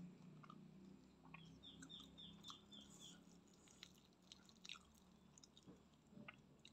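Faint, close chewing and small mouth clicks while eating fried noodles and chicken. A quick run of about seven high chirps sounds in the background a second and a half in.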